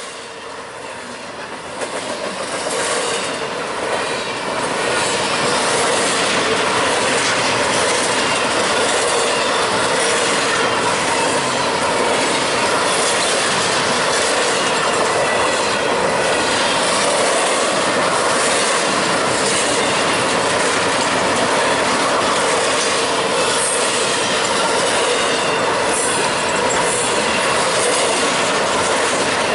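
Double-stack intermodal freight train's well cars rolling past at close range, a steady rumble and clatter of steel wheels on the rails. It grows louder over the first few seconds, then holds steady.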